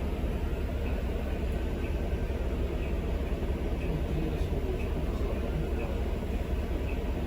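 CN freight train rolling past, a steady low rumble of its cars on the rails. A faint high-pitched squeak repeats about once a second.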